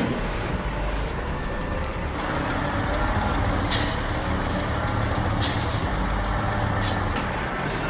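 Heavy truck engine running with a steady low rumble, broken by several short hisses of air from its air brakes, the first about halfway through.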